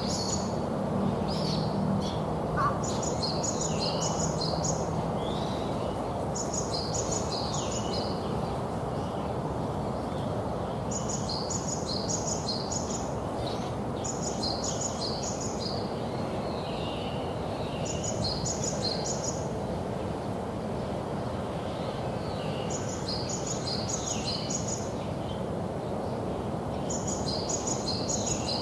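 A songbird singing the same short, high phrase of several quick notes over and over, about every two to four seconds, over a steady background hiss of outdoor noise.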